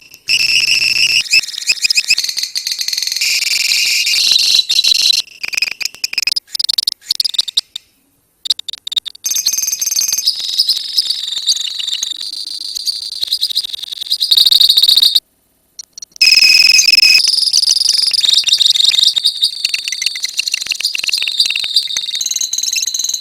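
A colony of lovebirds chattering in long, rapid, high-pitched runs, the continuous chatter that breeders call ngekek. It breaks off briefly about eight seconds in and again about fifteen seconds in.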